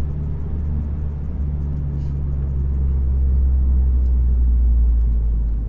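Exhaust drone of a 2018 Honda Accord's turbocharged four-cylinder running with its resonator and muffler deleted: a steady low drone while driving, swelling a little louder after the halfway point and easing near the end.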